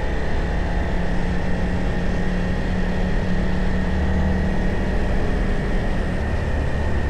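Motorcycle engine running at a steady pitch while riding, under a constant rush of noise.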